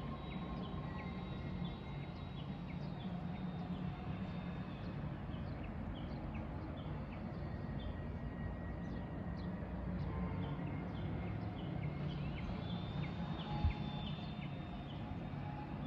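Several small birds chirping in quick short notes over a steady low background rumble. A single sharp knock sounds once, late on.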